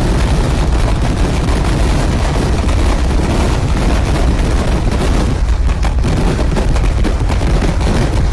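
Kerala temple-festival fireworks (vedikkettu) going off in a dense barrage, the blasts following so closely that they run together into a loud, continuous rumble of bangs.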